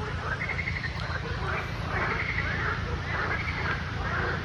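Several animals giving short, rapidly pulsed calls over and over, overlapping one another, over a steady low rumble.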